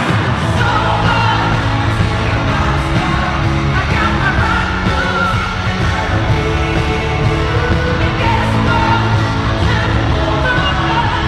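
Live pop-rock concert: full band and lead vocals over the arena PA, recorded from the audience, with some yells from the crowd.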